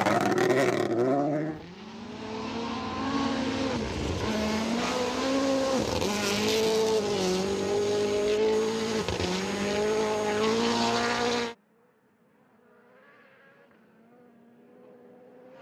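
Rally car engine revving hard, its pitch climbing and dropping repeatedly through gear changes as it passes. About eleven and a half seconds in it cuts off abruptly, leaving a faint engine of another approaching car that grows louder near the end.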